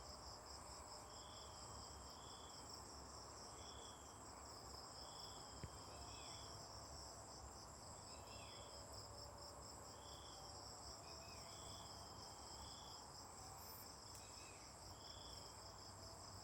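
Faint steady chorus of crickets trilling in fast pulses, with a short high note repeating about once every second or so and a few faint falling chirps.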